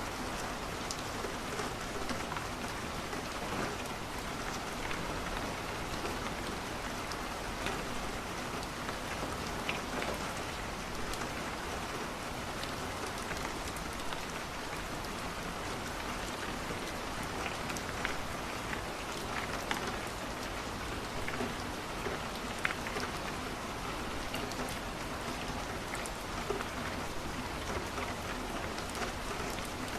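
Steady rain falling, with scattered sharp crackles from a wood fire burning in a fireplace.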